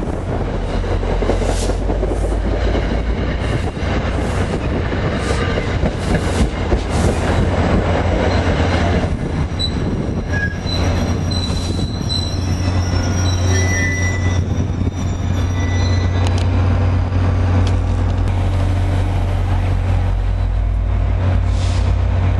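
Passenger train passing with a steady low rumble. Sharp clicks come through the first half, and brief high-pitched wheel squeals sound around the middle.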